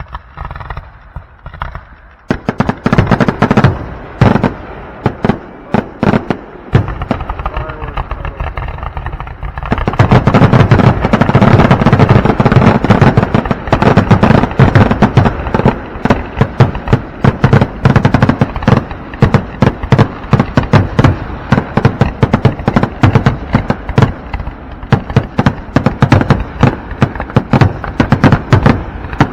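Aerial fireworks going off in a rapid, unbroken barrage of bangs and crackles, the dense volley of a show's finale. It thickens about two seconds in and grows heavier still about ten seconds in.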